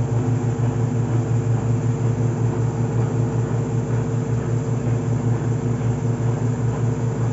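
Consul 9 kg top-loading washing machine running steadily, a loud low hum with a fast, even pulse, its main-shaft bearing newly replaced.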